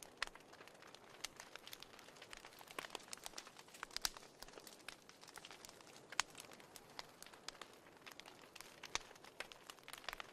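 Fireplace crackling: a wood fire sending out irregular sharp pops and snaps, a few louder than the rest, over a faint steady hiss.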